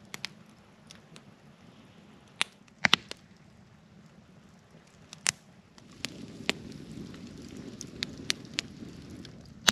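Burning firewood crackling, with about ten sharp pops scattered irregularly, a few close together. A low rushing sound comes in about six seconds in.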